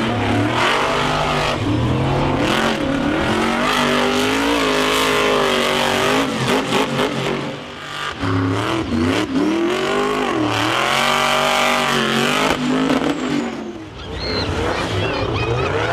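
Monster truck's big engine revving hard again and again, its pitch climbing and falling, with brief lets-off about halfway through and near the end.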